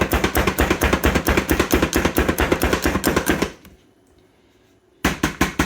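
Kitchen chopper chopping fresh cilantro: a fast run of sharp strikes, about nine a second, that stops about three and a half seconds in, then a short burst of four or five more near the end.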